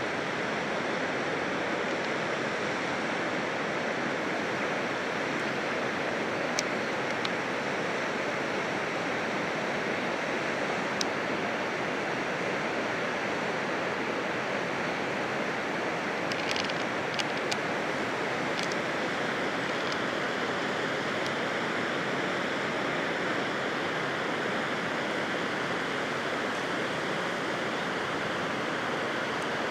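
Waterfall rushing steadily, an even roar of falling water, with a few faint high clicks now and then.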